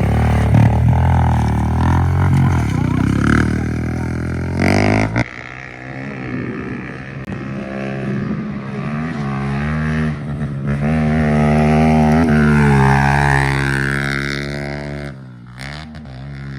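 Pit bike engine revving hard as it is ridden round the track, its pitch rising and falling with the throttle. The revs drop sharply about five seconds in, climb again, and dip once more near the end.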